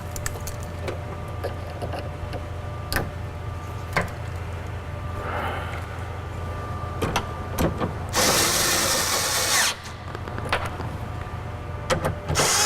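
Power driver with a 10 mm socket running bolts into a car door's window regulator in two bursts, about a second and a half near the middle and a shorter one at the end, with light clicks and clinks of parts and tools being handled in between.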